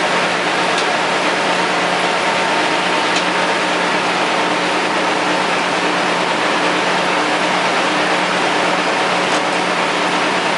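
Vintage Caterpillar D13000 diesel engine running steadily at constant speed, powering a sawmill: a steady low hum over dense mechanical noise.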